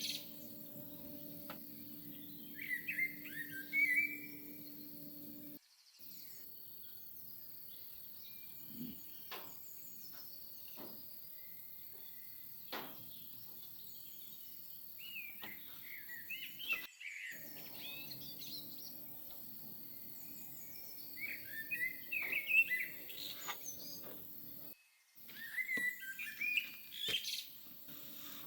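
Small birds chirping in short bursts of quick calls several times, over a steady low hum.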